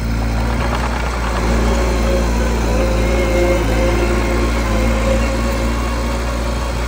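Mini bulldozer's diesel engine running steadily, a little louder from about a second and a half in.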